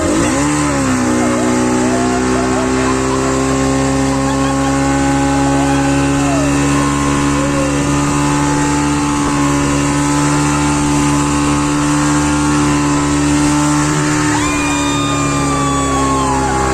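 Speedboat engine running steadily at speed, with a constant engine note over the hiss of water and wind.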